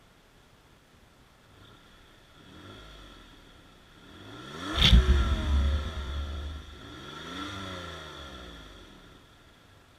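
Toyota RAV4 Sport's 3.5-litre V6 being revved while stationary: a small blip about three seconds in, then a big rev that peaks with a sharp knock about five seconds in and falls away, then a smaller rev near eight seconds, settling back to idle.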